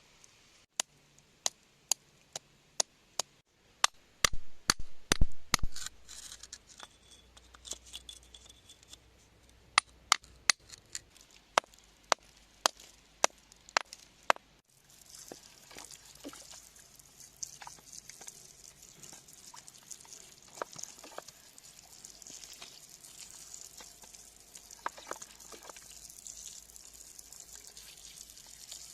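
Metal hand tools tapping and chipping at rock: a run of sharp, evenly spaced taps, a cluster of heavier knocks about four seconds in, and more taps. From about halfway a steady hiss takes over, with scattered clicks.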